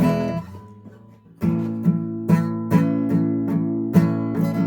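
Acoustic guitar strummed with a pick. One strum rings out, then after a short pause the same chord is strummed over and over in a steady rhythm, about two and a half strokes a second.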